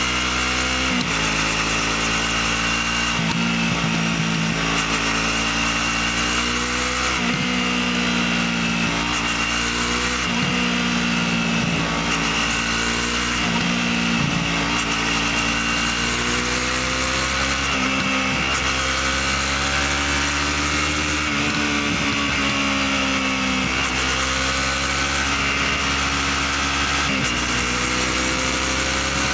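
Motorcycle with its stock exhaust, running under way. The engine note climbs steadily and drops suddenly several times, as at gear changes.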